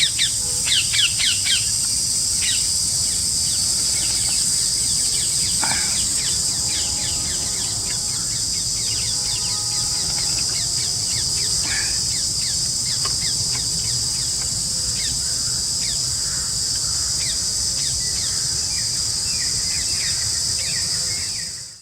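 Forest ambience: a steady, high-pitched insect drone with birds chirping and calling throughout. The sound fades out at the very end.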